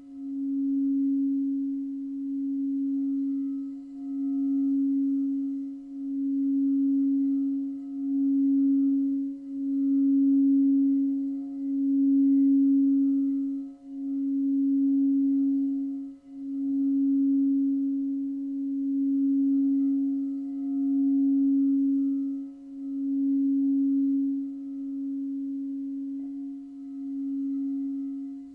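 Singing bowl sounding a single sustained low tone, swelling and fading in slow waves about every two seconds without ever stopping, as from a bowl being circled around its rim.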